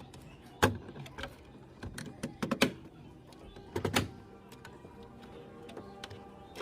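A few sharp knocks and clicks: one a little over half a second in, a quick cluster around two to three seconds in, and another pair at about four seconds.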